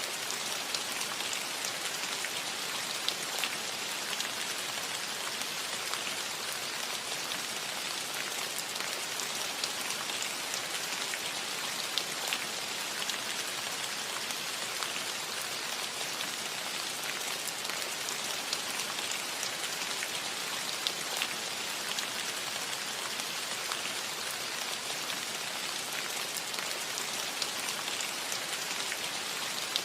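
Steady light rain falling on a metal roof: an even hiss with many small scattered drop taps.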